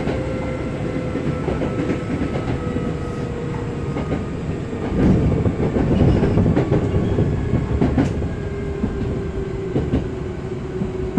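Hankyu 7000 series electric train running, heard from inside: a low rumble with a motor and gear whine that falls slowly in pitch as the train slows, and wheels clacking over rail joints. The rumble grows louder for a few seconds in the middle.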